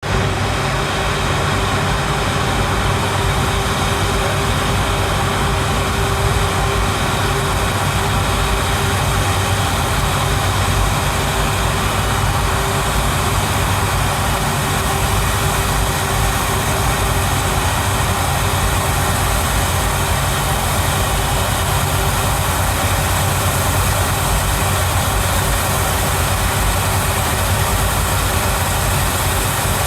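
Jet airliner's engines running at idle as it taxis in to the gate: a steady, unbroken engine noise with a low rumble and a held mid-pitched hum.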